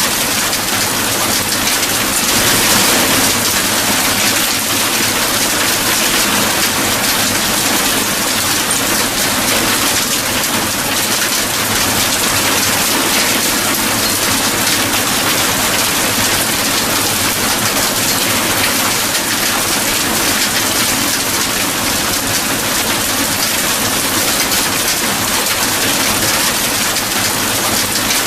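Steady heavy rain falling on a surface, an even hiss of many drops.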